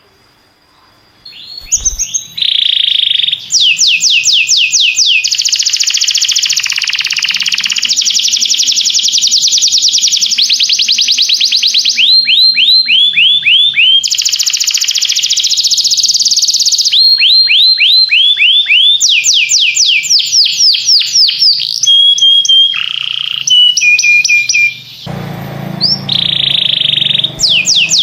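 Domestic canary singing: after about a second's pause, long rolling trills of fast repeated notes sweeping upward, run after run, with a few short held whistles between them. A low hum joins near the end.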